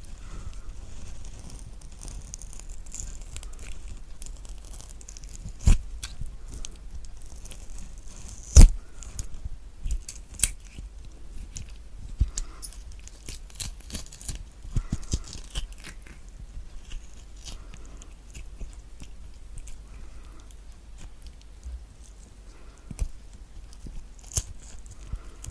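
Spoon scooping the flesh out of a halved kiwi, close up: soft wet scraping with scattered sharp clicks.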